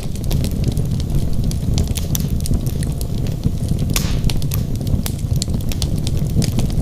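Wood fire burning in a fireplace: a steady low rumble of flame with frequent sharp crackles and pops from the logs. There is a brief hiss about four seconds in.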